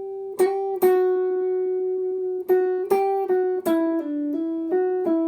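Guitar playing a single-note lead lick: one long note picked again twice early on, then a run of quicker notes from about halfway that step down in pitch and back up.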